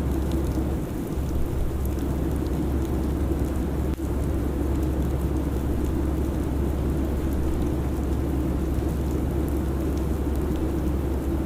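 Steady airliner cabin noise in cruise: a constant low rumble under an even hiss of rushing air.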